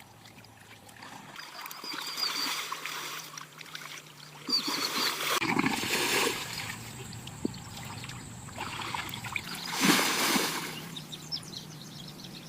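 Water splashing and sloshing in muddy shallows as animals struggle, with a few brief animal calls. The splashing surges loudest about four and a half to six and a half seconds in and again near ten seconds.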